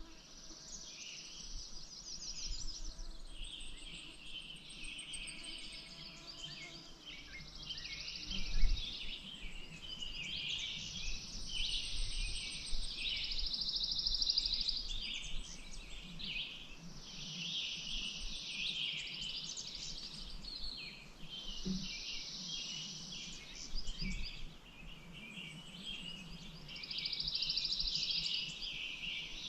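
Several songbirds singing, overlapping phrases with fast trills following one another every couple of seconds. A brief low thump stands out about a third of the way in.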